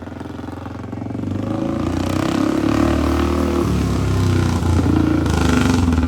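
Classic Rickman Metisse motorcycle engine running, growing louder from about a second in, its pitch shifting a few times.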